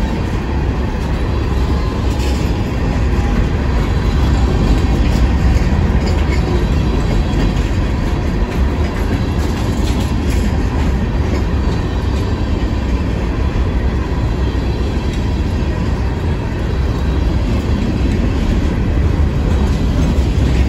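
Herzog ballast cars rolling slowly past at under 10 mph: a steady, heavy rumble of steel wheels on rail.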